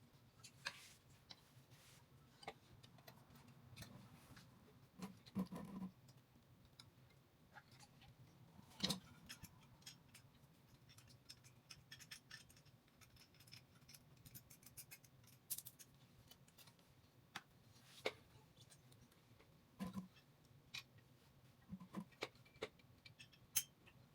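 Faint, scattered clicks and knocks of hand tools and metal parts being handled, with a denser run of small ticks partway through and a few sharper knocks.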